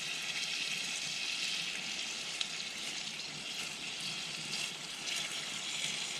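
Bacon frying in a pan over a campfire: a steady sizzling hiss with a few faint pops.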